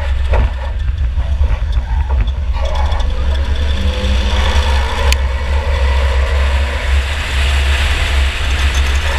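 2004 Chevy Impala derby car running in an enduro race, heard from inside the car as a loud, steady low rumble with road and chassis noise. A few knocks sound near the start and a sharp click about five seconds in.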